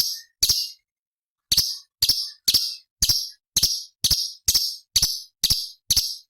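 Orange-bellied leafbird (cucak cungkok) giving a harsh, scratchy chattering call, about a dozen short high notes repeated roughly twice a second after a brief pause near the start.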